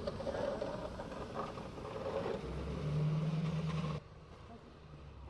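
A vehicle engine running with a steady low hum over outdoor noise; the sound drops away abruptly about four seconds in.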